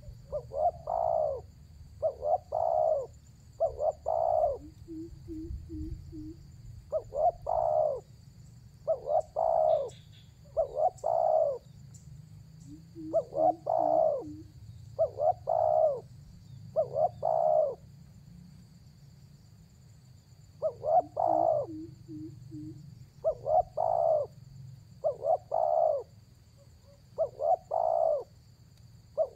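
Spotted dove (tekukur) cooing over and over, in phrases of two or three short coos with gaps of about a second between phrases. Three times a soft run of four quick low notes follows a phrase.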